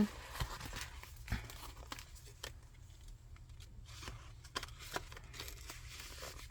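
Paper rustling and crinkling, with scattered soft taps, as the pages of a chunky handmade paper mini journal are handled and turned.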